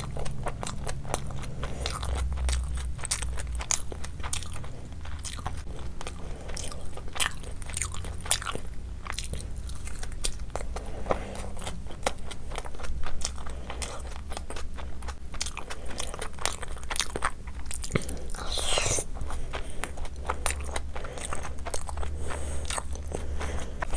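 Close-miked eating sounds: wet chewing of a soft seekh kebab with raita, with many irregular mouth clicks and lip smacks.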